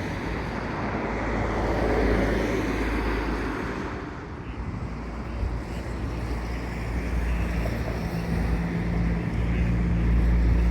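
Passing traffic: a vehicle goes by, swelling and fading about two seconds in, then a steady low hum grows louder as another vehicle comes close.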